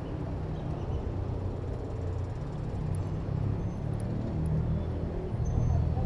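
Steady low rumble of road traffic and riding noise, heard from a moving bicycle.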